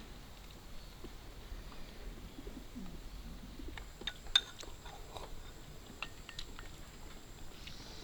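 A dove-like bird cooing faintly, with a few sharp clinks of chopsticks and bowls near the middle, one of them louder than the rest.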